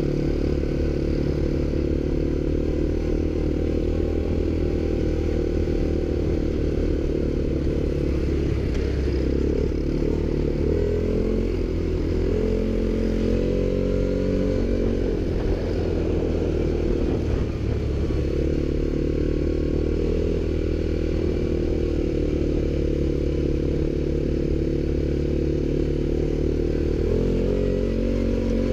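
ATV engine running continuously while riding, with its pitch rising and falling as the throttle changes between about 8 and 18 seconds in, then settling steady again.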